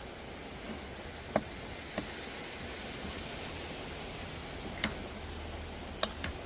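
Steady hiss of rain falling, with a few separate sharp taps: one about a second and a half in, one at two seconds, one near five seconds, and two close together near the end.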